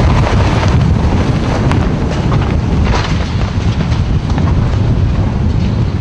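Strong wind buffeting the microphone: a loud, steady low rumble with scattered clicks and knocks on top.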